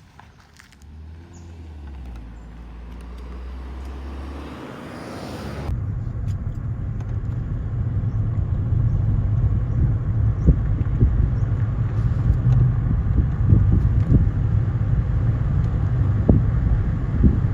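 A vehicle on the move: a low engine hum grows louder, then about six seconds in it gives way to a louder low road rumble with irregular thumps.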